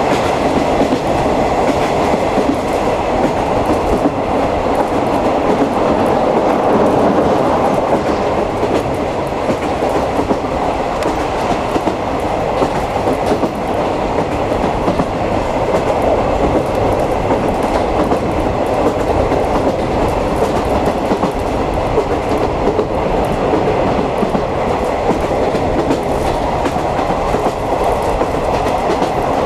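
50-series passenger coach running steadily along the track, heard from inside the coach: a continuous rumble of wheels on rail with faint clickety-clack over the rail joints.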